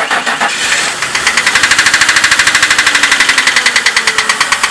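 Car engine just started and running at idle with a loud, rapid, even banging, about ten knocks a second. The seller is unsure whether the cause is bad lifters or a failing oil pump.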